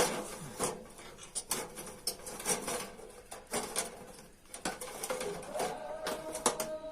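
Irregular light metallic taps and clinks, uneven in spacing and loudness, as in working a sheet-metal baking pan by hand.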